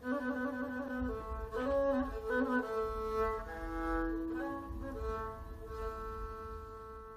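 Rebab, a three-stringed fretless bowed instrument with a skin-covered coconut-shell body and horsehair strings and bow, playing a slow melodic phrase. The phrase settles on a long held note that fades out near the end.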